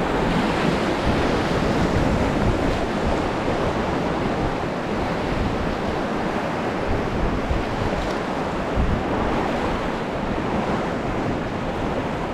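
Whitewater rushing steadily around a raft, with wind buffeting the microphone as a low rumble.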